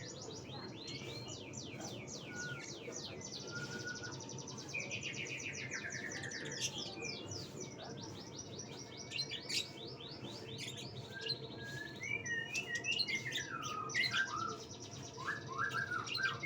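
White-rumped shama (murai batu) singing: rapid runs of chirps mixed with whistled notes that slide up and down.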